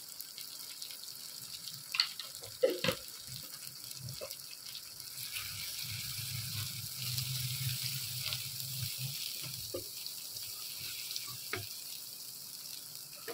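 Onion and ginger-garlic-chilli masala sizzling in ghee in a wok as it is fried down. A wooden spatula knocks against the pan a few times, around two and three seconds in and again near the end, and scrapes through the masala while stirring in the middle.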